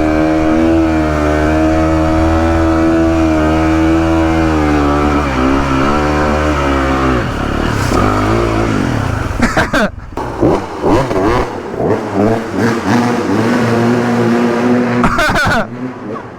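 Motorcycle engine under ride, held at steady high revs for several seconds, then backing off about seven seconds in. After that the revs rise and fall unevenly, with throttle blips.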